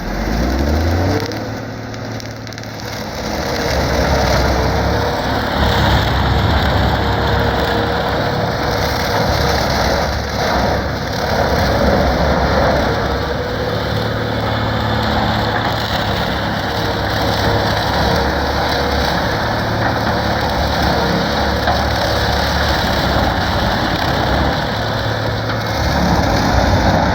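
Case IH MX210 tractor engine revving up about a second in and then running hard under load, driving a Highline bale processor that shreds and blows out a bale of reed canary grass in a steady rush of grinding.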